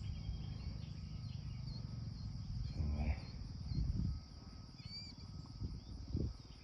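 Summer field ambience: a steady high drone of insects over a low rumble of wind on the microphone, with a few brief high chirps and several dull low thumps around the middle.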